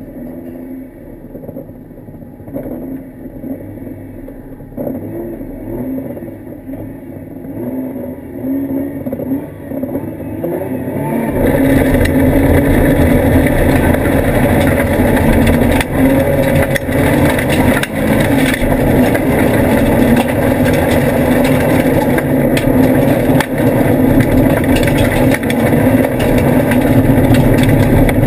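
Mitsubishi FTO engine heard from inside the cabin, at first quieter with the revs rising and falling, then about eleven seconds in it goes to hard acceleration, much louder, and stays at full load.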